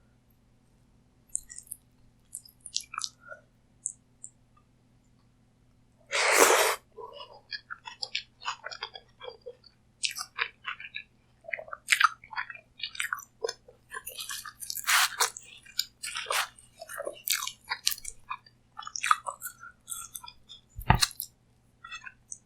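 Close-miked eating: a loud crunchy bite about six seconds in, then steady chewing with wet clicks and crackles. A single dull thump comes near the end.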